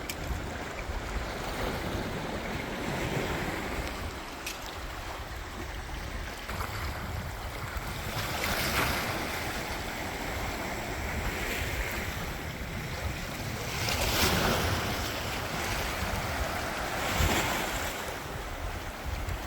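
Mediterranean surf washing onto the beach, a steady hiss with three louder surges of breaking waves in the second half, over a low rumble of wind on the microphone.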